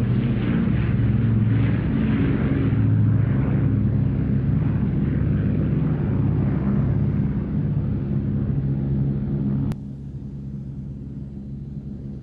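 Piston engines of the Avro Lancaster and Douglas Dakota droning overhead during a formation break. The sound fades slowly, then drops suddenly to a fainter drone near the end.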